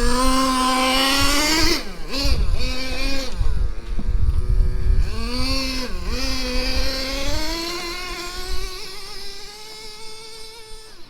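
Traxxas T-Maxx 3.3's small two-stroke nitro engine running under throttle, its pitch climbing at the start, then dropping and picking up again twice as the throttle is let off and reapplied. It holds a steady pitch and grows fainter toward the end.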